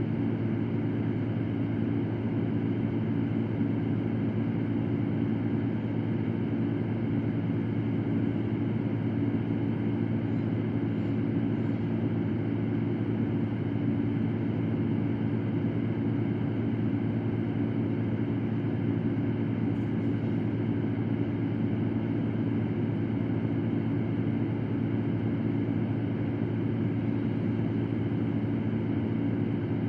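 Electric fan running steadily: a constant whooshing air noise with a low motor hum, used as white noise for sleep.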